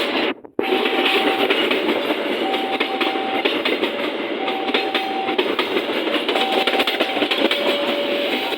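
Train passing with a steady rumble and rail clatter, over a two-pitch warning tone that repeats about every second and a half. The sound drops out briefly about half a second in.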